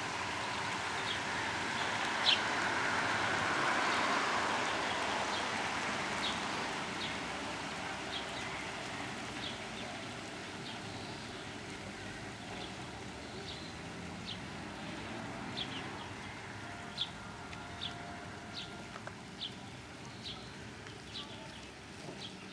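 Small bird chirping, short high chirps repeated every second or so, over a steady background hiss of outdoor town noise.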